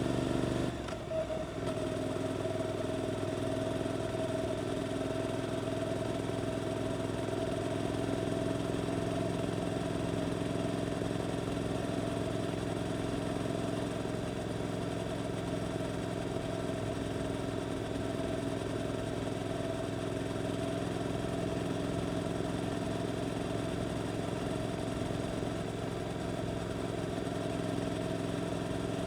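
Suzuki GSX-8S parallel-twin engine running through an Arrow aftermarket exhaust at a steady engine speed, with a brief dip in the note about a second in.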